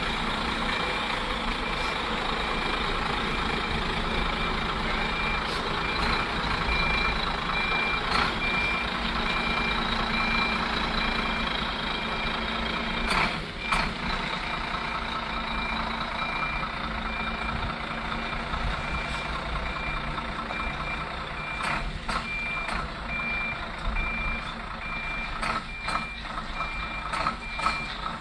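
A truck's reversing alarm beeping steadily in an even rhythm, high and piercing, over the running engine, with a few sharp knocks partway through and near the end.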